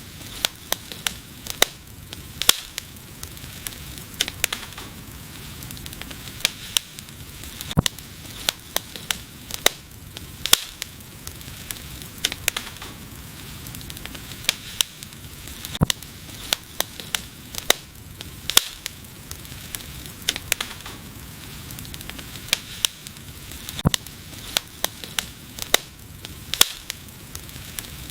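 Wood fire burning, with a steady low hiss and frequent sharp, irregular crackles and pops from the burning logs.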